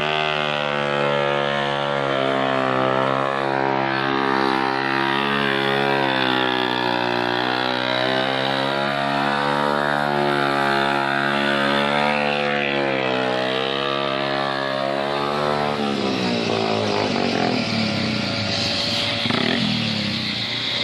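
Motorcycle engine held at steady, high revs with a slight waver in pitch, as in a stunt show; about three-quarters of the way through it drops away into a rougher mix of engine and crowd noise.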